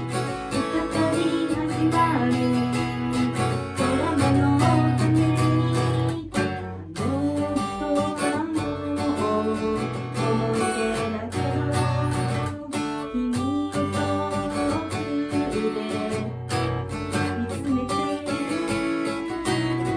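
Acoustic guitar strummed steadily as song accompaniment, with low bass notes under the chords.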